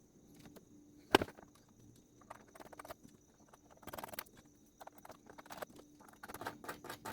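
Hands reassembling a portable party box speaker: scattered small clicks, taps and scrapes of parts and casing being handled, with one sharper knock about a second in.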